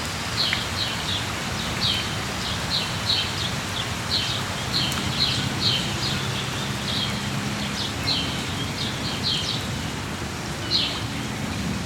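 Rainforest ambience: steady rain hiss with frequent short, high chirping calls from birds scattered through it.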